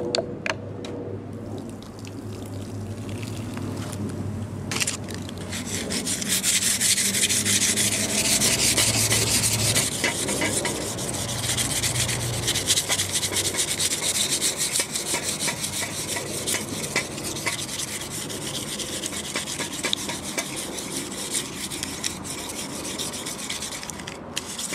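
Crumpled aluminum foil scrubbing a rusty chrome exhaust pipe wetted with Diet Coke or Pepsi, in fast back-and-forth rubbing strokes. It starts light and builds over the first few seconds, is at its loudest between about six and twelve seconds in, then eases off.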